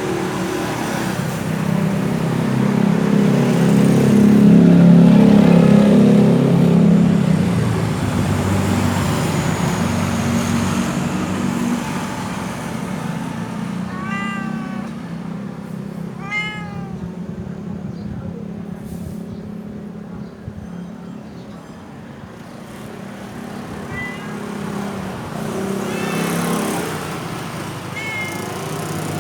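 Stray cat meowing repeatedly: two clear meows about two seconds apart midway, with fainter ones early and near the end. A steady low rumble runs underneath, loudest in the first third.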